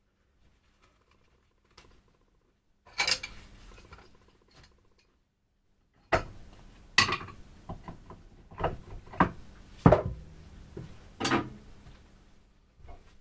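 A run of irregular sharp knocks and clinks of hard objects, such as tools being handled or set down on a workbench. There are about seven, with the busiest stretch in the second half.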